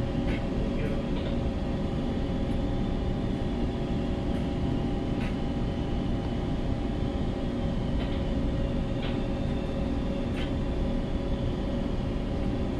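Bulk carrier's engine and machinery running: a steady low rumble with a constant hum of a few fixed tones, and a few faint short clicks scattered through it.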